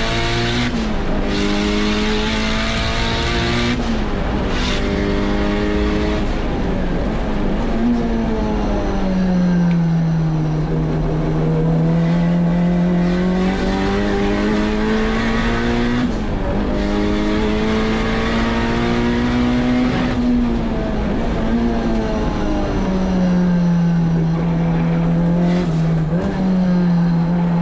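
Turbocharged K24 inline-four in a Honda S2000, driven hard on a race track. The engine note climbs and falls as the car accelerates and slows for corners, with brief breaks at gear changes.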